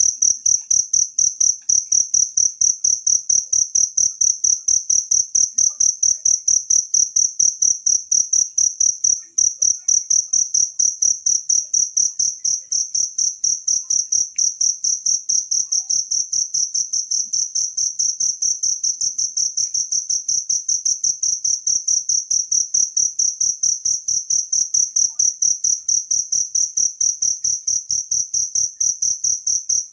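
A cricket chirping continuously in a rapid, even pulse of a single high, shrill tone.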